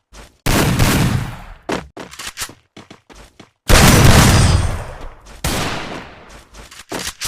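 Three loud sudden bangs, each fading away over a second or more, with short sharp clicks in between, like gunfire.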